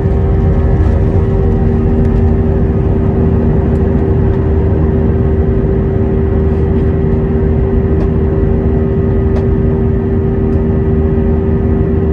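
The Airbus A320's IAE V2500 turbofan engines, heard from inside the cabin, running steadily: a loud, even drone with a strong held tone over a deep rumble.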